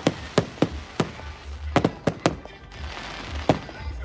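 Fireworks going off: an irregular string of sharp bangs and cracks, about eight in four seconds, over a steady crackling haze.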